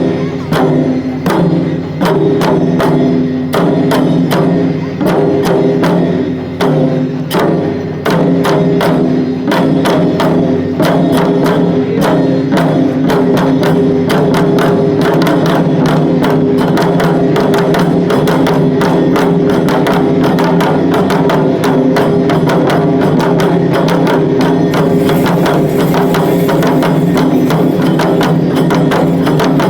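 Shishimai lion-dance accompaniment: drums struck in a fast, driving rhythm over a steady sustained tone. The strikes come with short breaks at first and run unbroken from about eight seconds in.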